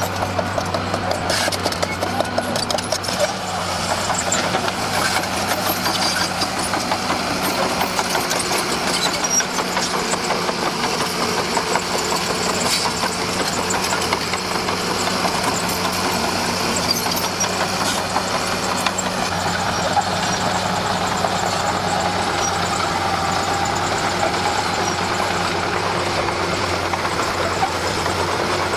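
Komatsu D41P crawler bulldozer's diesel engine running steadily under working load, with a constant low drone and fine rapid rattle over it.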